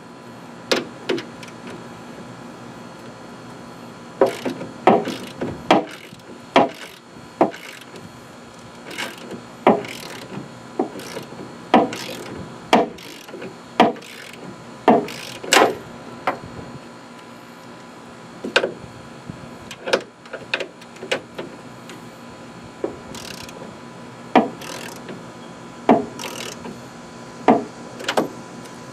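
Irregular clicks and knocks of hand tools and bolt hardware being worked, a few a second at the busiest, as a clamp is bolted on with a washer and nut.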